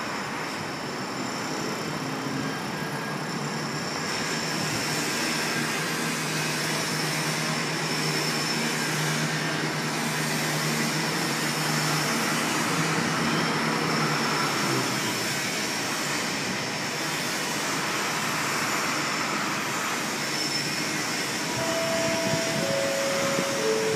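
Railway station ambience: a steady hum of trains running at the platforms. Near the end, a three-note public-address chime steps down in pitch, as before a station announcement.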